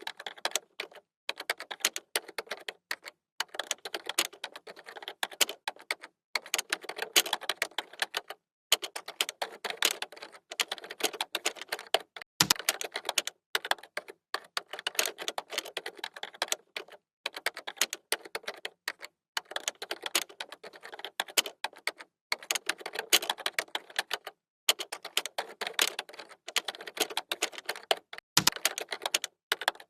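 Computer keyboard typing: rapid runs of key clicks in bursts of a second or two, with short pauses between them.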